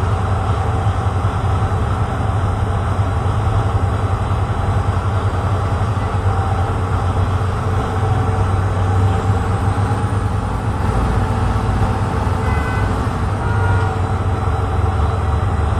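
Marine diesel engine running steadily under way, a deep drone as the vessel pulls away from the pier while undocking. A few brief faint tones sound near the end.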